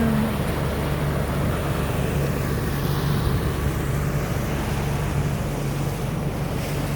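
Boat motor running steadily with a constant low hum, under a wash of wind and water noise from the boat moving along.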